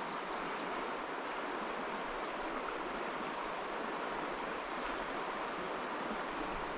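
Steady, even rushing hiss of a small mountain stream's running water, with a thin high buzz on top.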